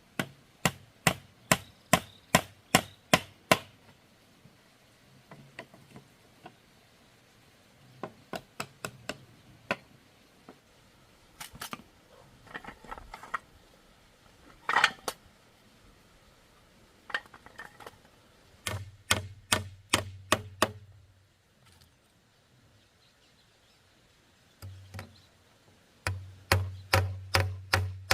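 Runs of sharp tool strikes on bamboo, about three a second, with pauses and a few scattered knocks between the runs.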